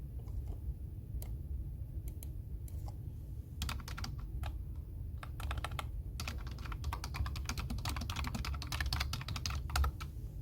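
Computer keyboard typing: a few scattered key presses, then fast continuous typing from about three and a half seconds in that stops just before the end, over a steady low room hum.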